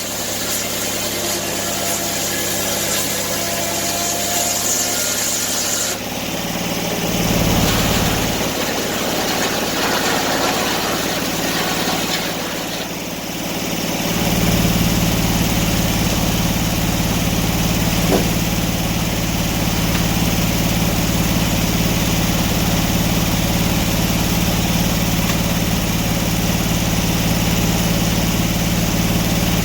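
Engine running, its sound shifting about six seconds in and settling into a steady low hum from about fourteen seconds on.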